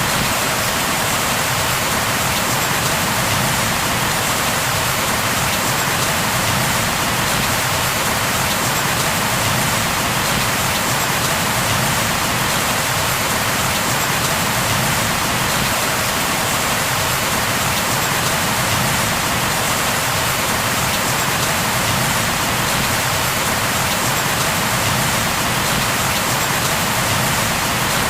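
Steady rain falling on a surface, an even, unbroken hiss with no thunder.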